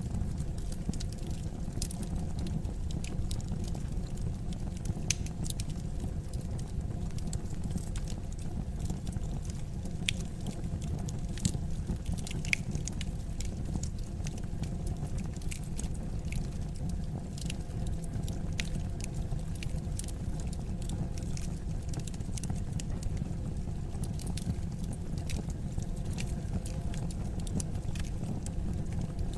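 Wood fire crackling in a fireplace: a steady low rumble of burning with scattered sharp snaps and pops, a few louder pops near the middle.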